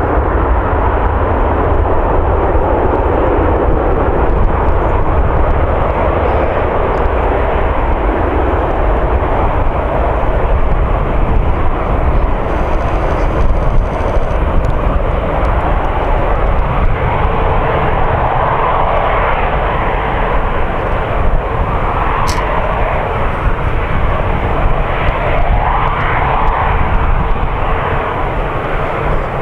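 Jet airliner engines running loud and steady, a deep rumble under a wide roar, with a steady whining tone coming in about halfway through.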